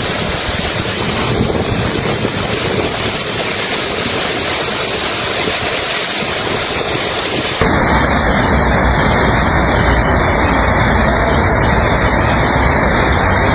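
Fast-flowing floodwater rushing in a loud, steady noise, with an abrupt cut to a different recording of the torrent about halfway through.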